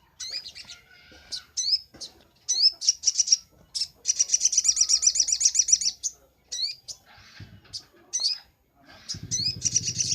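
Little spiderhunter (sogon) singing: sharp, high chirps and a fast trill of about two seconds, repeated. A low hum starts near the end.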